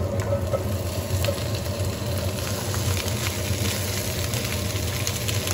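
Green beans sizzling in hot olive oil and garlic in a skillet just after they are tipped in, with small clicks as a hand spreads them; a steady low hum runs underneath.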